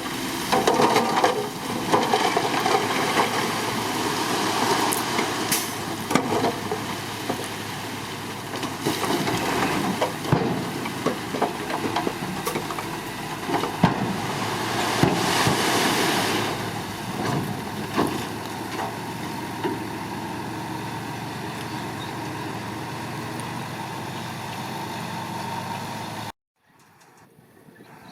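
Bulldozer working: its diesel engine runs under load with scattered metallic clanks. The sound cuts off suddenly near the end.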